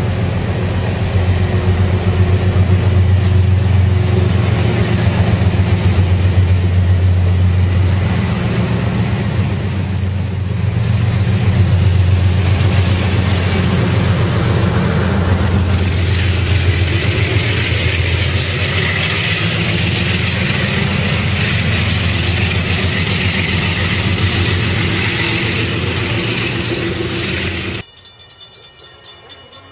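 Diesel-hauled passenger train, an Amtrak Pacific Surfliner, passing close by: a steady loud rumble of wheels on rail over a low, even diesel engine drone. Near the end it cuts off suddenly to a much quieter background.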